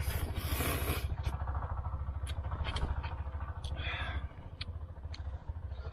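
Someone eating hot instant noodles: a noisy slurp at the start, sharp clicks of chopsticks against the cookware, and another slurp about four seconds in, over a steady low rumble that eases off about four seconds in.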